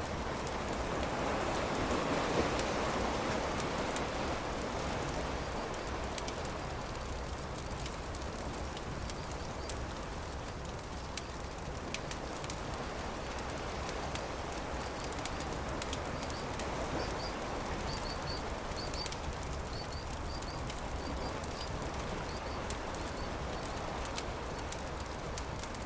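Campfire crackling in a steady stream of small pops over a continuous rush of surf, which swells near the start. Short high bird chirps, often in pairs, come in the second half.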